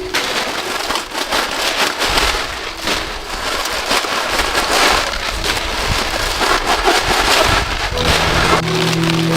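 Rain falling heavily on a surface: a dense, crackling patter of drops. Steady music tones come in about eight seconds in.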